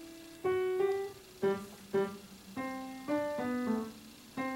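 Background piano music: single notes played one after another at an unhurried pace, each ringing and fading before the next.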